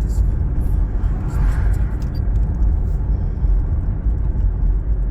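Wind buffeting the microphone during a bicycle ride: a steady, loud low rumble, with light clicks and a brief rising and falling hiss about a second and a half in.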